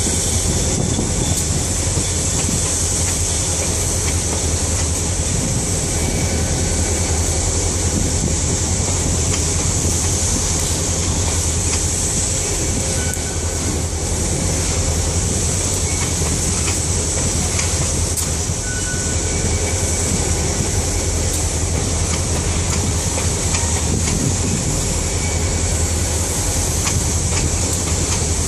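Empty covered hopper cars of a freight train rolling past at close range: a steady rumble and rush of steel wheels on rail, with occasional clicks and a few short, faint wheel squeaks.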